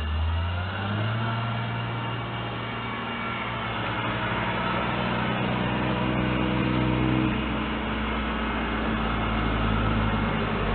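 A motor vehicle's engine running, its pitch stepping up about a second in, holding steady, then easing down a little near the end.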